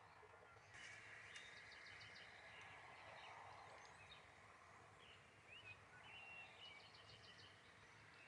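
Faint outdoor ambience with small songbirds chirping, giving short rising calls and quick trills.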